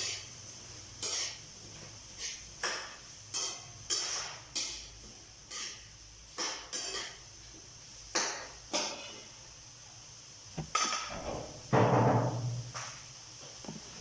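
Kitchen utensils knocking and clinking against cookware, a sharp knock every half second to a second, with one louder clatter near the end.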